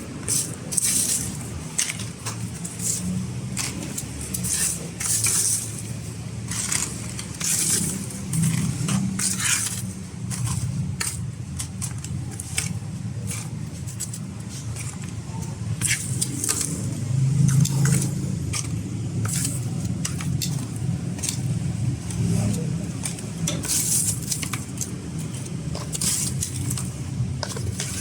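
Metal kitchen utensils and pans clinking and scraping at irregular intervals over a steady low rumble of road traffic.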